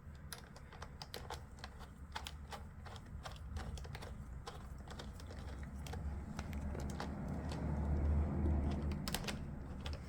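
Irregular light metal clicks and taps of a Phillips screwdriver and terminal hardware as a motorcycle battery terminal is reconnected, over a low handling rumble that swells in the second half.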